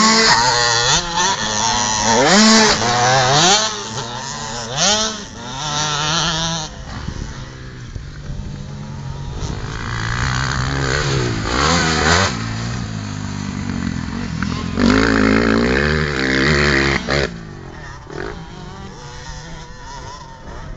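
KTM 250 SX-F four-stroke motocross bike revving hard, its pitch rising again and again as it accelerates through the gears. It eases off to a lower drone in the middle, opens up loudly again for a couple of seconds, then falls back.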